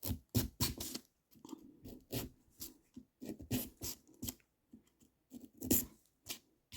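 A small knife cutting and scraping into a pumpkin's rind and flesh: a run of short, irregular crunching strokes.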